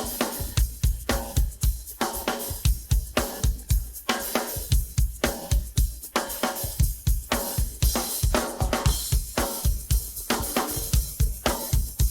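Isolated rock drum kit playing a steady, busy funk groove: kick drum, snare backbeat and hi-hat with cymbals.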